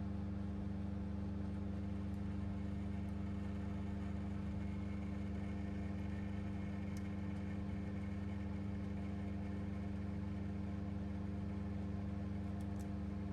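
Steady machine hum at a constant pitch, with a low drone and a few faint ticks.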